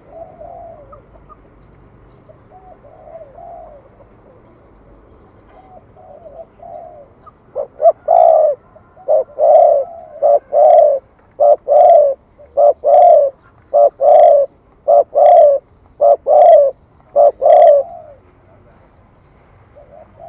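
Spotted dove cooing: soft, scattered coos at first, then from about seven seconds in a loud, quick run of about a dozen short coos that stops near the end. This is the urgent 'thúc gù' cooing.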